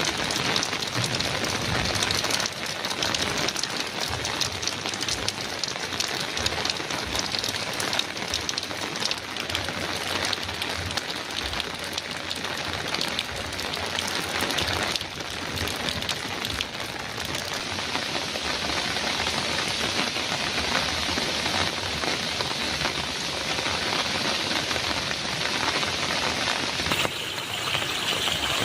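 Heavy rain drumming steadily on a metal roof, thick with separate drop hits. The texture of the rain changes abruptly near the end.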